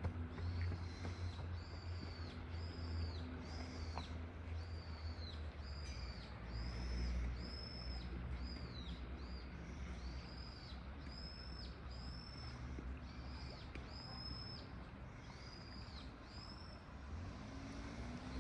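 A small bird repeats a short, high, arched call about one to two times a second, pausing briefly near the middle and stopping shortly before the end. Under it runs the steady rush of water flowing down a narrow aqueduct channel, with a low rumble.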